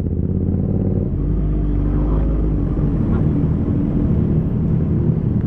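Motorcycle engine running at a steady low speed, its pitch shifting slightly about a second in.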